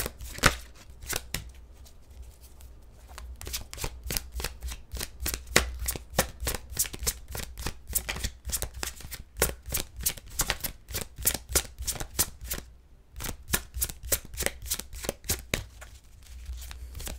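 Tarot cards being shuffled by hand, a rapid run of light card riffles and snaps, several a second, pausing briefly near the middle, over a low steady hum.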